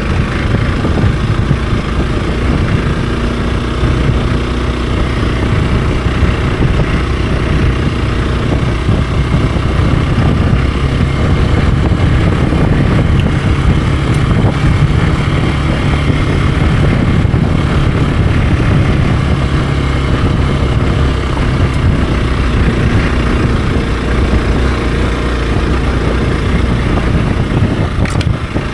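Hero XPulse 200 4V's single-cylinder four-stroke engine running steadily while the motorcycle is ridden, its pitch shifting only slightly with no hard revving.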